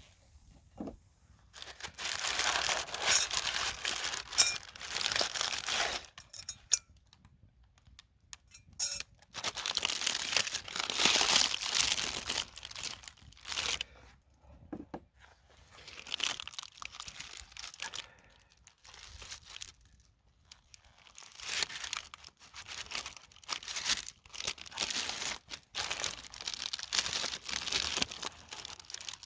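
Crinkling and rustling of something being handled, coming in bursts of a few seconds with short pauses between them.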